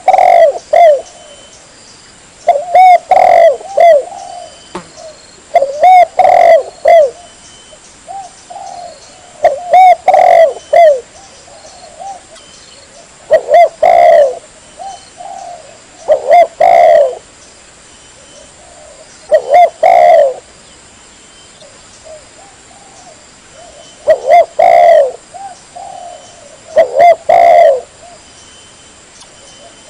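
Spotted dove (tekukur) cooing: short phrases of several low coos, repeated about every three to four seconds.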